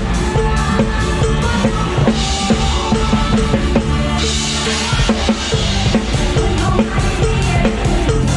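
Live band music driven by a drum kit, a steady kick-and-snare beat with the band's bass and pitched instruments under it. Cymbals wash over the beat about two seconds in and again about four seconds in.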